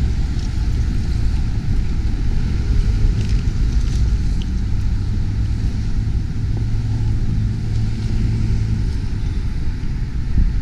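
Steady low outdoor rumble, with a few faint light ticks higher up.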